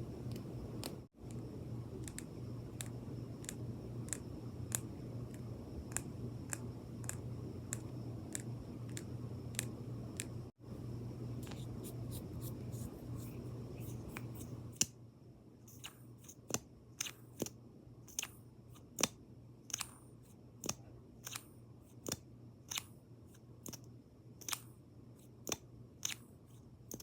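A run of sharp, close-up clicks or taps, between one and two a second, typical of ASMR tapping on makeup items. A steady low hum sits under the first half and stops about halfway through, leaving the taps on their own.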